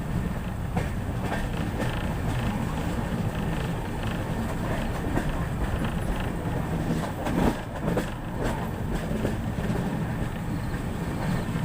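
Moving passenger express train running on the track: a steady rumble with wheels clacking over rail joints, a few louder clacks about two-thirds of the way through.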